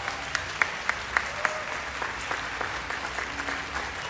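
Audience applauding, with a few louder, closer claps standing out in the first second and a half.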